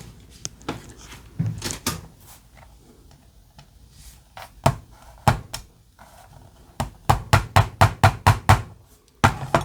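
Sharp taps and knocks on a small diecast model car as an axle is gently forced into its chassis: a few single knocks, then a quick run of about eight taps, roughly four a second, and one more near the end.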